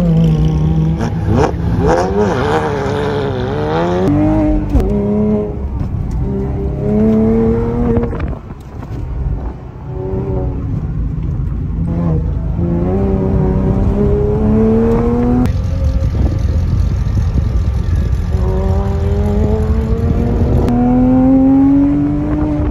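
2006 Porsche Cayman S 3.4-litre flat-six with an aftermarket full exhaust, revving hard as the car accelerates between cones. The engine note repeatedly climbs in pitch and drops back at each shift or lift. It is heard from outside the car at first, then from inside the cabin.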